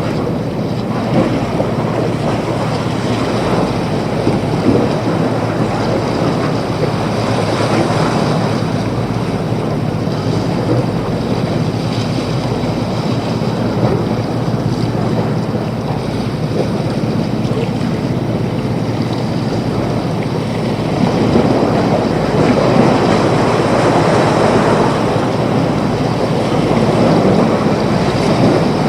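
Waves breaking and washing in, with wind buffeting the microphone. The rush swells noticeably about two-thirds of the way through.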